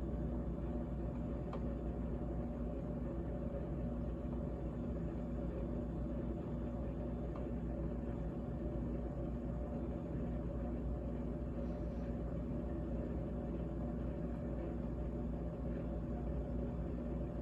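GE GTH18XCTZRBB refrigerator running, a steady hum with several held low tones over a faint hiss and a couple of faint ticks.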